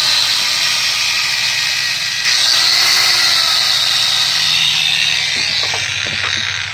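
Makita 9005B angle grinder running on its freshly rewound stator during its first test run: a loud, steady motor whir that steps up a little about two seconds in and begins to wind down near the end.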